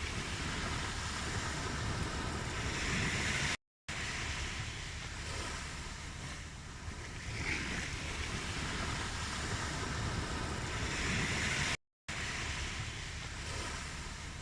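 Ocean waves washing in, swelling and easing every few seconds. The sound cuts out completely for a moment twice.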